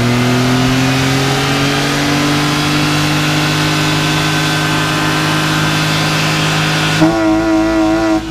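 BMW E36 engine revved up and held at high rpm with a steady, slightly climbing note. About seven seconds in, it switches to a higher, wavering note that lasts just over a second.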